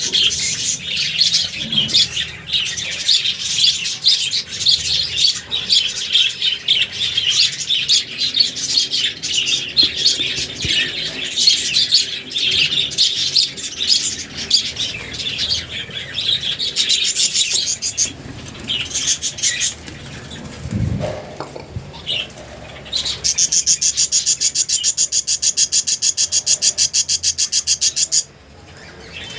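A flock of budgerigars chirping and chattering busily, with a few seconds of rapid, even fluttering near the end.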